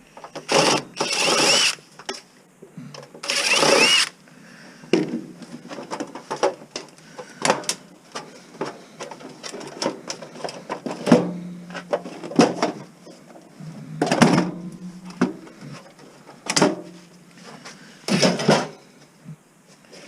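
An amplifier's metal chassis being taken apart: two short runs of a power driver near the start, then scattered clicks, knocks and clanks of screws and metal parts.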